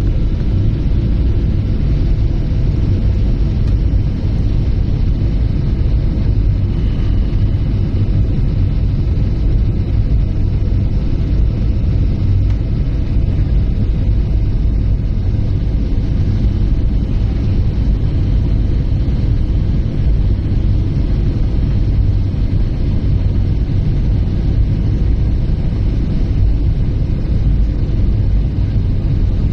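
Steady loud low rumble of an airliner heard from inside the passenger cabin, with a faint steady whine above it and no break or change.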